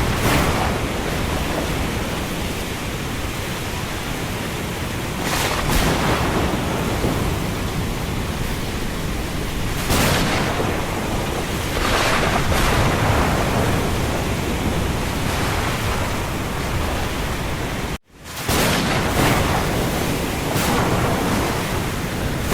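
Windstorm ambience: a steady rushing of wind and rain, swelling into louder gusts every few seconds. About three-quarters of the way through, the sound cuts out for a split second and then comes back.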